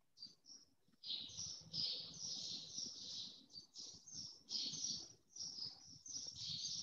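Faint birds chirping: two short high chirps, then a near-continuous run of twittering from about a second in.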